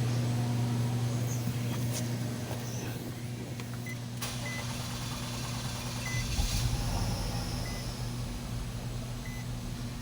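Nissan Altima engine running with a steady hum after being started with the crank sensor unplugged, showing it runs with the sensor bypassed. A short electronic beep, like a dashboard warning chime, repeats about every second and a half from about four seconds in, and a deeper rumble picks up about six seconds in.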